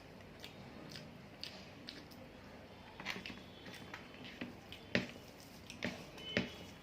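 Close chewing and wet mouth sounds of a person eating rice with vegetable curries: soft smacks and clicks, sparse at first and more frequent and louder from about halfway through.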